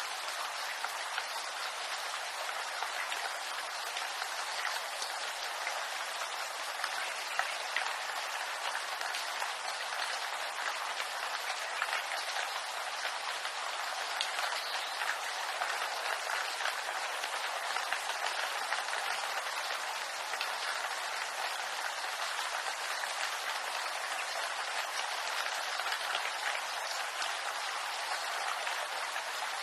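Steady rain falling on bamboo leaves, a dense patter of many small drop impacts.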